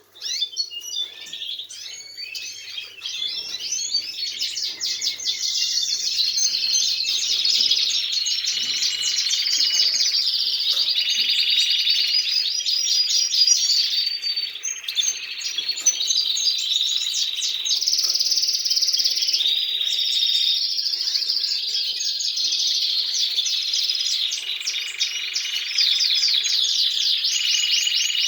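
Caged domestic canaries singing continuously, several birds' songs overlapping in long fast trills, rolling runs and chirps.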